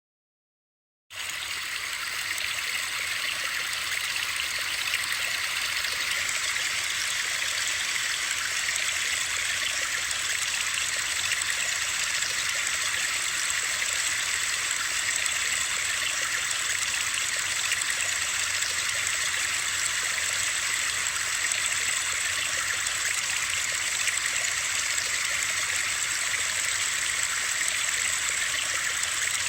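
Steady high hiss of water-like white noise, like rushing water, cutting in suddenly about a second in after dead silence and then holding even.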